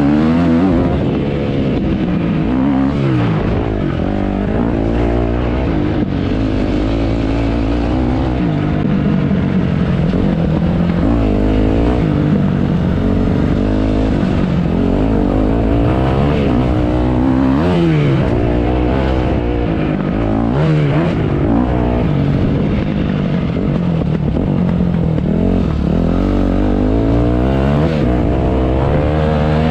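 Motocross bike engines revving up and down over and over as the bikes accelerate and shift, with the rising and falling pitches of more than one engine overlapping.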